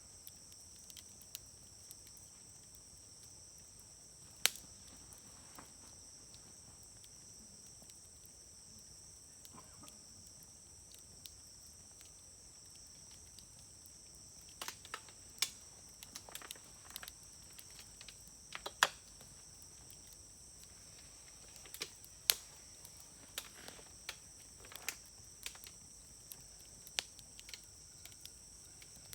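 Wood campfire burning in a fire grill, with sharp irregular pops and crackles: a few loud single snaps, thickening into clusters in the second half. A steady high-pitched insect trill runs behind the fire.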